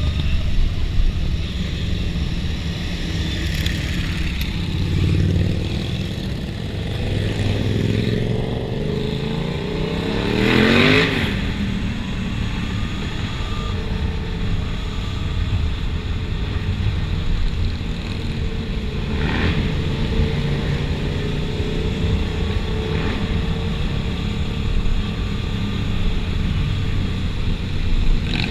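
Motorcycle engines running in street traffic over a steady low rumble of riding noise. About ten seconds in, one motorcycle revs hard, its pitch climbing steeply to a peak and then dropping away.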